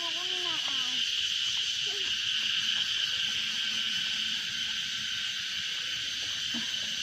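Steady, high-pitched chorus of insects calling without a break, with a few faint wavering calls in the first second.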